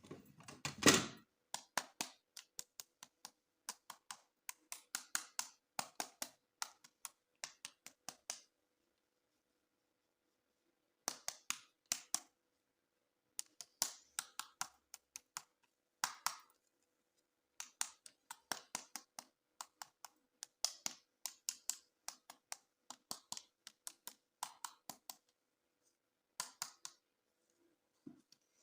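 Hands unboxing plastic toys: runs of sharp clicks and taps in quick clusters, with a louder handling noise about a second in and a couple of short pauses.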